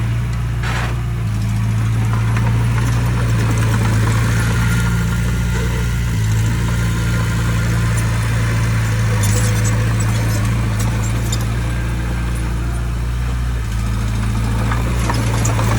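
Diesel engine of heavy construction machinery running at a steady pitch, with light clicks and rattles about a second in and again between about nine and eleven seconds.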